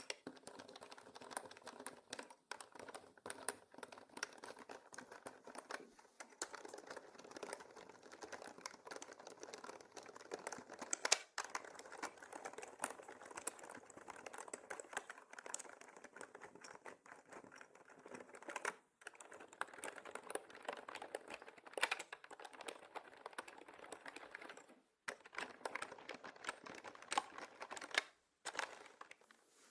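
Continuous fast typing on a mechanical keyboard, a dense stream of key clicks with a few brief pauses.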